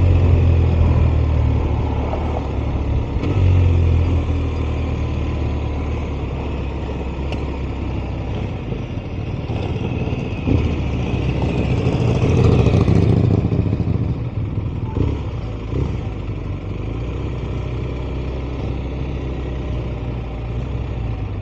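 BMW R 1250 RS's boxer-twin engine running at low speed as the motorcycle rolls slowly. The engine swells briefly three times: at the start, about four seconds in, and again about twelve seconds in.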